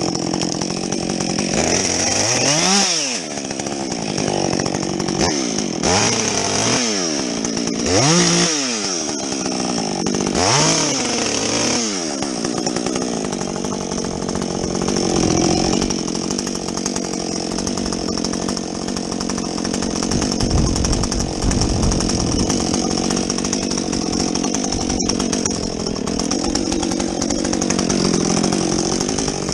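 Muffler-modded Husqvarna 562XP two-stroke chainsaw bucking a felled tree. The engine revs up and drops back about four times in the first dozen seconds, then holds steady at high revs through the rest.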